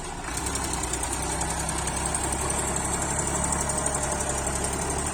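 Tractor diesel engine running steadily, getting a little louder just after the start.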